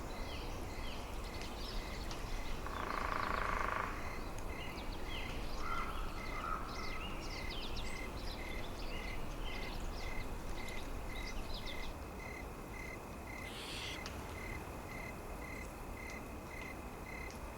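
Forest ambience: a steady low rush with many small birds chirping and twittering. A regular pulsing note repeats about three times every two seconds, and a louder call sounds briefly about three seconds in.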